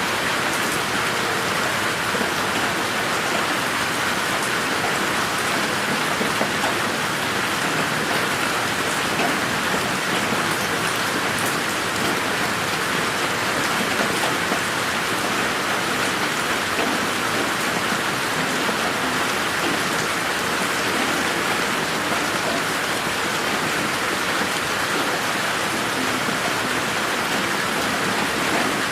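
Steady rain falling in a garden: an even, unbroken hiss of many fine drop ticks at a constant level, mixed as 8D audio that pans around the listener.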